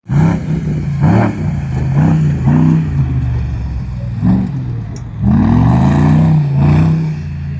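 Off-road car's engine running with a steady low note, revved in several short throttle blips and a longer, stronger rev about five seconds in.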